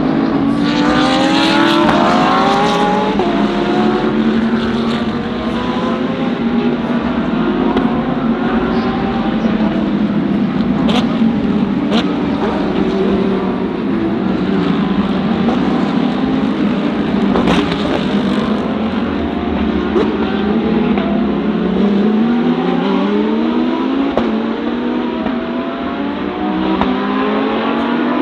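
DTM GT3 race cars' engines running hard as a pack goes by, their pitch climbing through the gears and dropping at each upshift, several cars overlapping. A few sharp cracks stand out in the middle.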